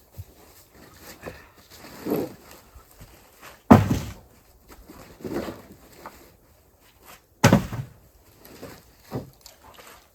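Thuds and knocks of objects being handled and set down on a wooden surface, with two loud thumps, about four and seven and a half seconds in.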